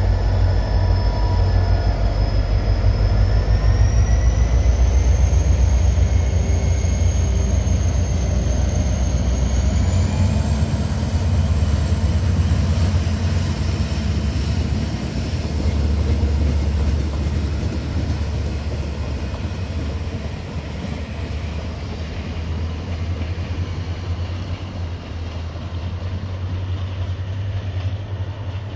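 Diesel locomotive hauling a Mugunghwa-ho passenger train as it pulls out of the station: a heavy low engine drone, with a whine that climbs in pitch over the first ten seconds as the train gathers speed. The carriages rumble past on the rails, and the sound slowly fades as the train moves off.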